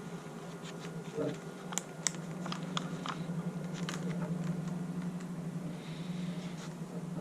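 A few faint clicks from a hand-tightened T-bolt on a fuel line repair tool, pressing a barbed fitting into nylon fuel tubing, over a steady low hum.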